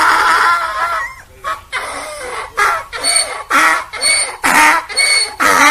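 Donkey braying: a long drawn-out call that ends about a second in, followed by a run of rhythmic hee-haw pulses, about two a second.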